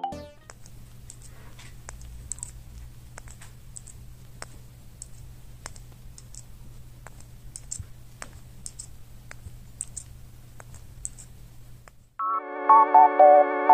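Irregular light clicks and ticks, a few each second, over a steady low hum. Electronic music with a bright melody starts suddenly near the end.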